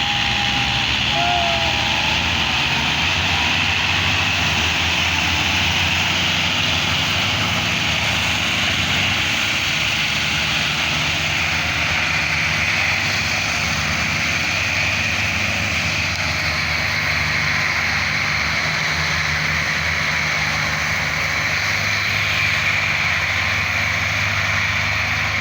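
Tractor engine running steadily: a constant low engine note with a noisy hiss above it, unchanging throughout.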